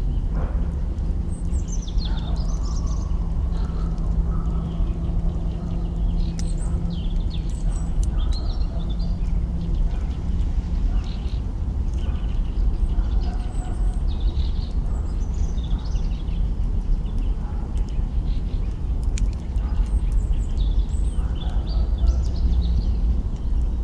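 Campfire crackling with an occasional sharp click over a steady low rumble, while small birds chirp and twitter again and again.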